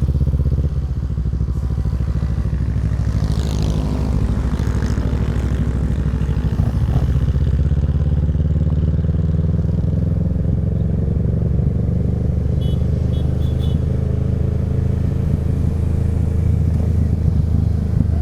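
Kawasaki Z650's parallel-twin engine through a Yoshimura Alpha exhaust, running at a steady rpm on the move, with a brief drop in level about a second in.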